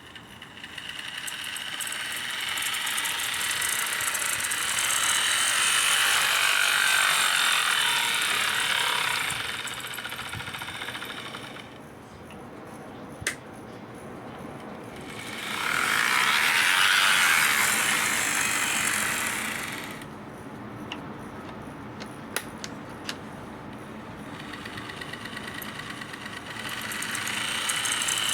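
Restored model GP40-2 locomotive running under power as a test: its motor and gears give a whirring, rattling noise that swells and fades three times as it comes near and moves away. A few sharp clicks come in the quieter stretches.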